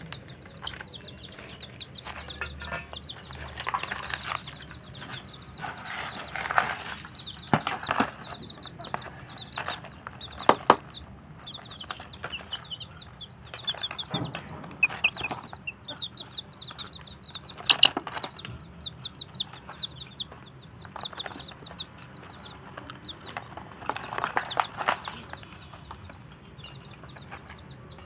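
Small cage birds, budgies, chattering in a steady run of quick high chirps, broken by a few sharp knocks and several short rasping noises.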